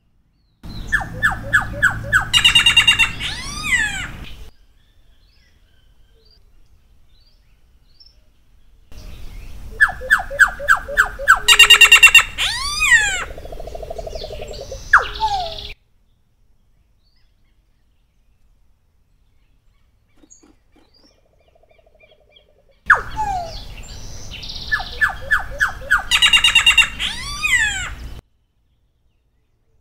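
Solitary black cacique (Cacicus solitarius) singing three separate bouts of song with pauses between them. Each bout opens with a quick run of repeated notes and builds into loud whistled notes that sweep up and down.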